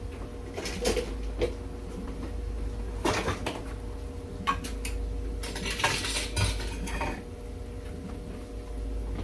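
Pots, pans and metal utensils knocking and clinking, in scattered bursts over a steady hum, as cookware is handled to strain cooked pasta.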